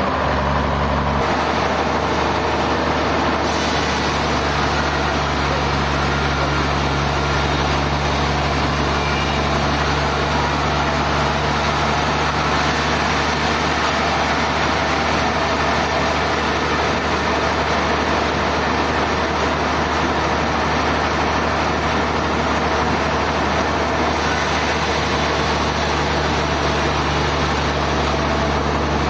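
Sawmill machinery running steadily: a constant low motor hum under a dense hiss, which grows brighter about three and a half seconds in.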